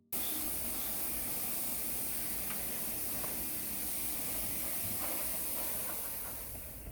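Steady hiss, brightest in the highest pitches, with a few faint ticks; it starts and stops abruptly.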